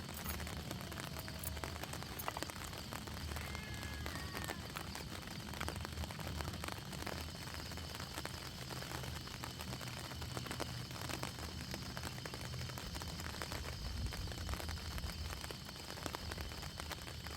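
Rain pattering steadily on a surface, a dense run of small drop ticks over a soft hiss.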